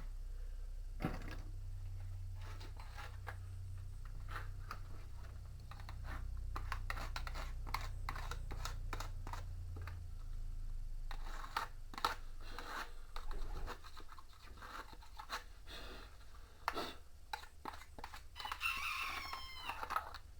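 Hand wiping and scrubbing a washing machine tub's rubber seal: a run of short scratchy rubbing strokes over a low hum that fades out about two-thirds of the way through. Near the end there is a brief high squeaky, warbling sound.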